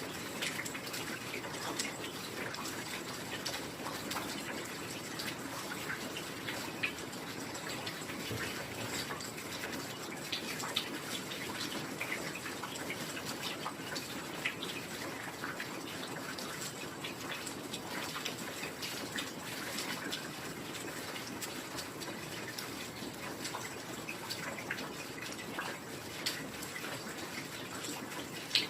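Steady heavy rain, a dense hiss of falling water with many small drop ticks in it. A few sharper drop hits stand out, one just before the end.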